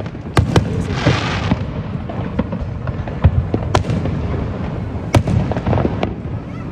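Fireworks display: aerial shells bursting with sharp bangs every second or so, a crackling, hissing shower about a second in, over a steady low rumble of further booms.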